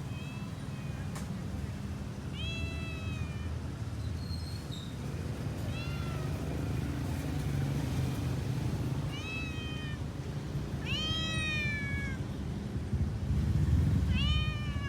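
A cat meowing about six times, each meow rising and then falling in pitch; the loudest and longest comes past the middle.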